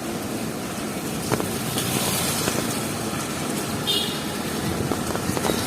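Steady noise of a passing vehicle, with a brief high squeal about four seconds in.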